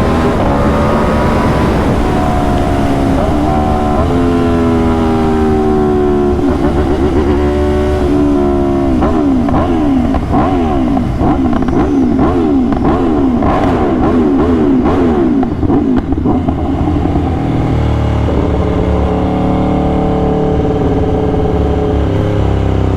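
Aprilia RSV4's V4 engine under way: the revs climb and drop several times in the first few seconds as it shifts up through the gears, then rise and fall quickly over and over for several seconds, and settle to a steadier, lower note near the end.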